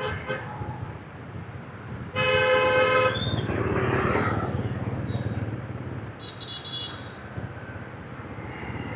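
Motorbike traffic with a steady low engine rumble, cut through by one loud vehicle horn blast lasting about a second, then a few shorter, higher-pitched horn beeps.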